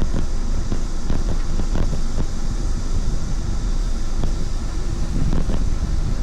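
Wind buffeting the microphone while riding: a steady low rumble, with a few faint clicks.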